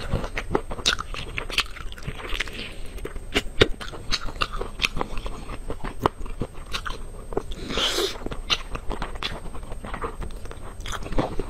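Close-miked eating of braised meat: chewing and biting with many sharp, irregular crunchy clicks, and a longer hissing burst about eight seconds in.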